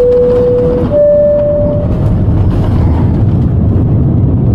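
Steady rumble of a Boeing 787's engines and airflow heard inside the cabin in flight, with two steady tones at the start, the second a little higher than the first.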